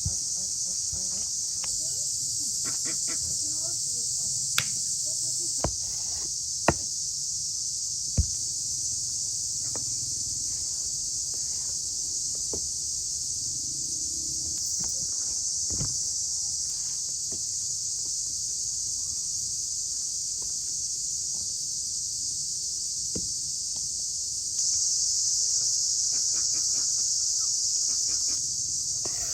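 Steady high-pitched chirring of an insect chorus, getting louder near the end, with a handful of sharp clicks or knocks scattered through it.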